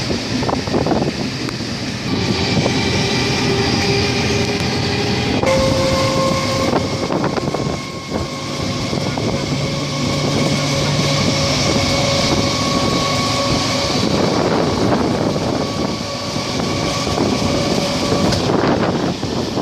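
Passenger train running along the track, with rumble and rush from an open window. A whine of several held tones rings over it, steps up in pitch about five seconds in, and fades near the end.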